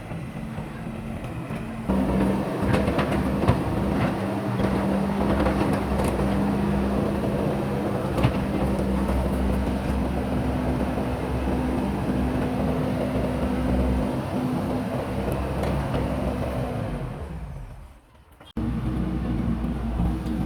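Backhoe loader's diesel engine running steadily under load, with scattered knocks and rattles from the digging and loading work. Near the end the sound drops away almost to nothing for a moment, then cuts straight back in.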